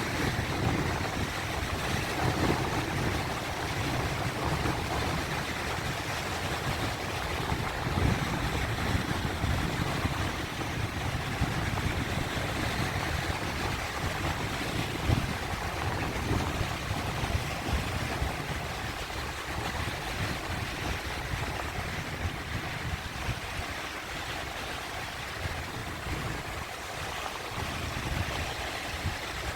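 Sea waves washing and breaking, a continuous rush of surf with a low rumble that swells and eases.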